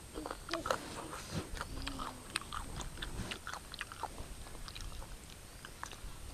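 A person chewing food close to the microphone, with frequent irregular mouth clicks and smacks.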